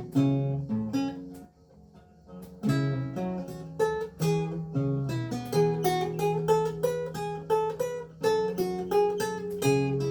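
Renaissance lute with gut strings played solo: plucked melody notes over held bass notes, with a brief pause about one and a half seconds in before the playing resumes.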